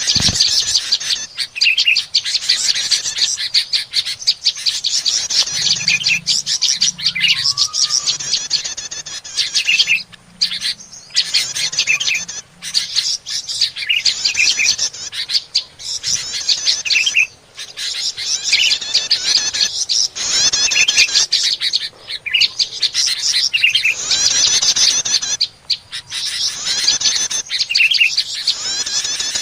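Busy chattering of prinias (prenjak) and other small songbirds, a bird-lure recording: fast, high chirps and trills in dense phrases broken by a few brief pauses.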